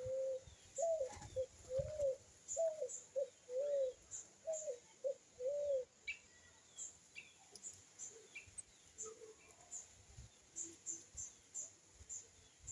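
A dove cooing: a run of about nine short, arched coos over the first six seconds, then it falls quiet. Faint high chirps of small birds go on throughout.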